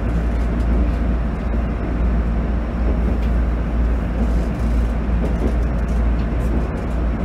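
Running sound inside a JR East GV-E400 series diesel-electric railcar on the move: a steady low rumble of the engine and the wheels on the rails.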